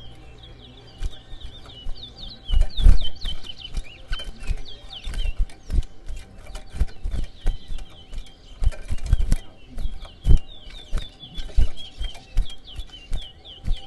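Chestnut-bellied seed finch (towa towa) singing phrases of quick, hooked chirps, each run lasting a second or two, repeated several times. Frequent low thumps and clicks run underneath.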